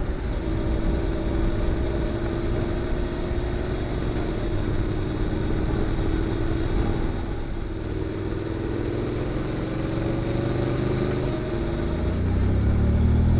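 Honda NC750X parallel-twin engine breathing through a GPR aftermarket muffler while the bike is ridden. Its pitch sinks slowly at first, then rises as the bike accelerates near the end, getting louder.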